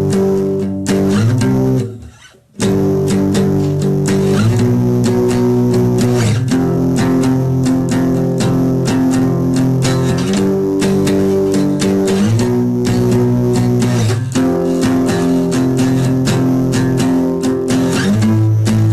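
Guitar-driven band music, plucked guitars with a bass line, playing a song's opening; the playing stops briefly about two seconds in, then carries on with a steady rhythm.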